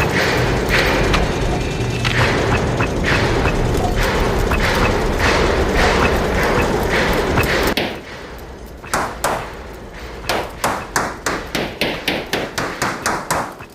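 Repeated thuds and knocks. For about eight seconds they come amid a dense, loud din; then the din drops away and a quicker run of sharp, separate knocks follows, about two or three a second.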